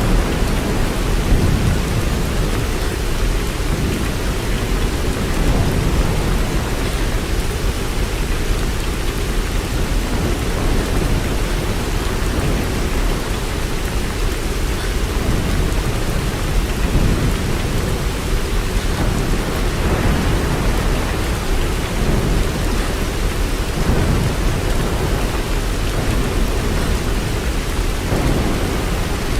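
Steady, heavy-sounding rain, with a deep low rumble underneath that swells and fades every few seconds.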